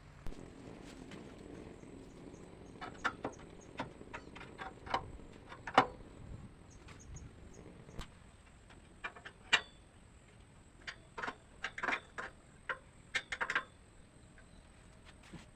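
Irregular light clicks and knocks, some in quick clusters, with two louder knocks about six seconds in and about nine and a half seconds in.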